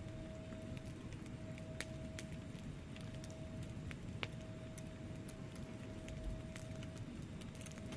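Wood fire burning in a fireplace: a steady low rumble of flames with irregular sharp crackles and pops from the logs, one louder pop about four seconds in. A faint steady tone runs underneath.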